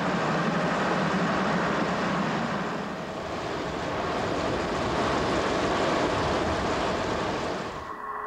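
A diesel multiple unit running at speed, heard from on board: a steady rush of wind and wheel-on-rail noise. It cuts off abruptly near the end.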